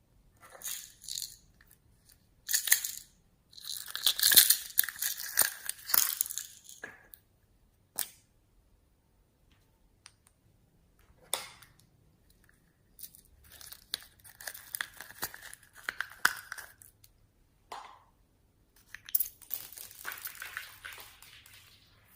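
Slime being squished and stretched by hand, giving sticky crackling with small pops and clicks in several bursts of a few seconds each, with short pauses between.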